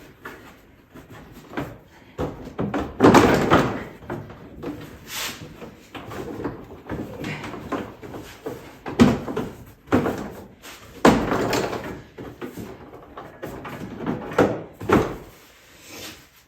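Irregular knocks and clatter of ATV parts and tools being handled during reassembly, with a longer rattling stretch about three seconds in and sharp knocks later on.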